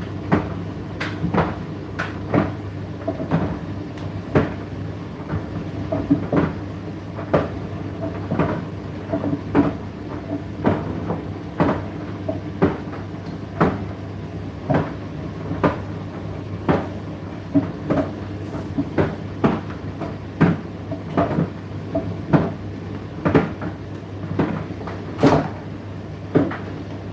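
Indesit IDC8T3 condenser tumble dryer running: a steady motor hum with repeated knocks and clicks, about one or two a second, as the load tumbles in the rotating drum.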